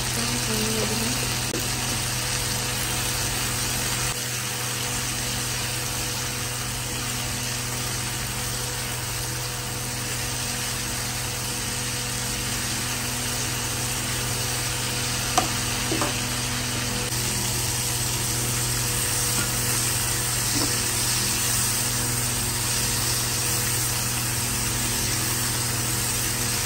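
Cut yard-long bean pods sizzling as they fry in oil in a nonstick kadai, stirred with a silicone spatula, the sizzle growing in the second half. A steady low hum runs underneath, and the spatula knocks the pan twice about halfway through.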